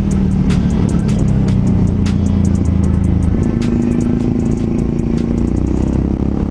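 Yamaha XT660X single-cylinder engine running steadily while the bike is ridden, its note stepping up in pitch about halfway through as the revs rise.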